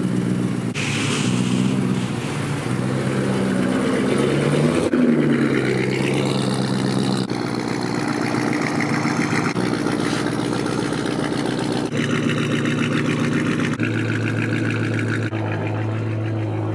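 A vehicle engine idling and revving, in a string of short clips that change abruptly every second or two, with one rev dipping and climbing about five seconds in.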